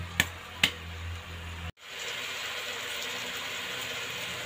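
A metal spoon clinks twice against an aluminium pressure cooker over a low steady hum. After a cut comes a steady sizzle of cow feet frying with spices in the pot.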